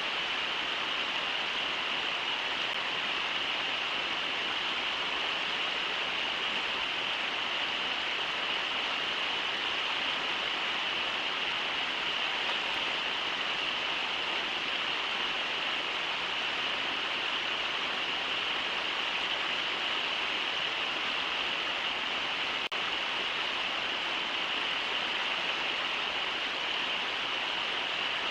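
Steady rushing of the Brooks River at Brooks Falls, an even, unbroken wash of falling water, with one faint click a little after twenty seconds in.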